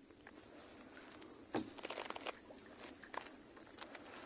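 Night insect chorus, a steady high-pitched trilling of crickets or katydids, with a few faint clicks and knocks.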